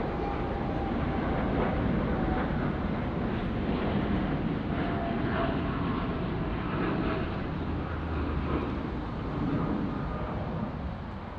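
Widebody jet airliner's engines running, a steady loud rushing noise with a few faint whining tones, easing slightly near the end.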